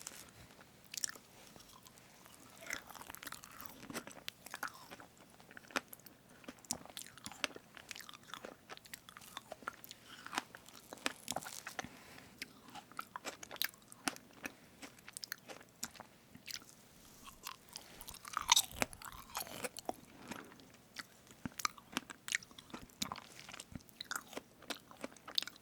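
Chewing of strawberry fresh-cream cake: soft, wet mouth sounds with many small sticky clicks, growing louder for a moment about eighteen seconds in.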